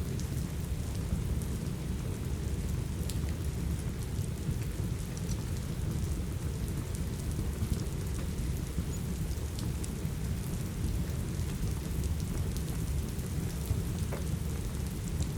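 Steady rain with a deep, even rumble underneath, and a few faint, scattered crackles and pops from a wood fire.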